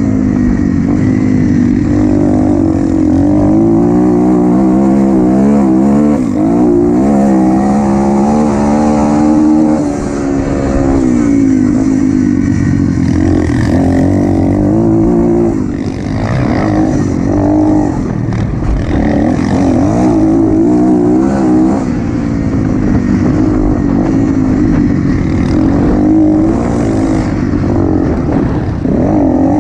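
Motocross dirt bike engine ridden hard, its pitch rising and falling over and over as the rider opens the throttle, shifts and backs off.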